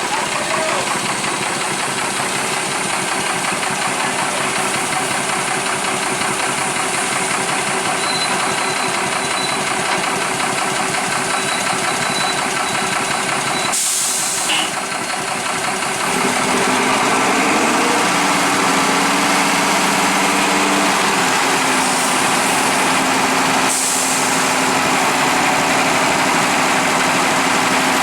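Heavy diesel engines of trucks and buses running at idle. About halfway through, one engine gets louder and rises in pitch, then holds steady.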